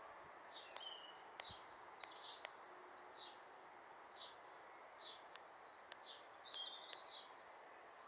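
Small birds chirping: many short, high notes in quick succession, over faint steady background noise.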